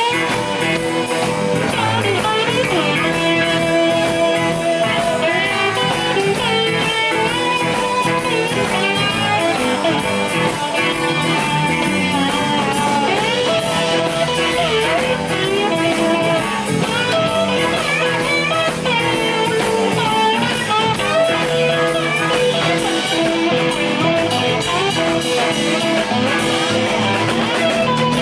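Live blues band playing an instrumental break, with an electric guitar carrying bending, wavering lead lines over the rhythm section.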